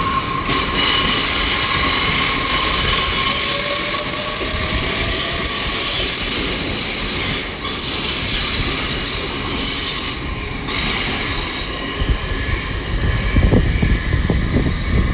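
A GWR Class 800 IET train pulling out of the platform. It gives several steady high-pitched tones over a low rumble of running gear, and the rumble grows heavier near the end.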